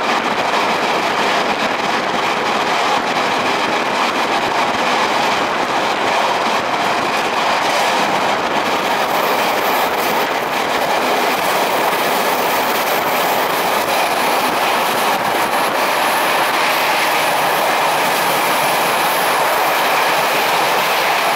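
Passenger train running along the line, heard from inside the carriage: a steady rush of wheel and rail noise.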